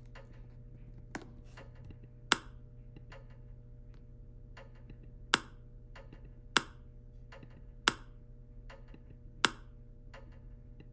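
Wall light switches being flipped on one after another: five sharp clicks at uneven gaps of one to three seconds, with fainter ticks between. A steady low hum runs underneath.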